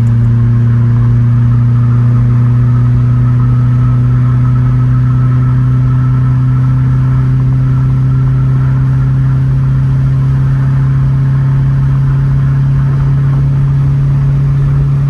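Car engine and exhaust droning steadily at highway cruise, heard from inside the cabin, the low note rising slowly as the car gathers speed.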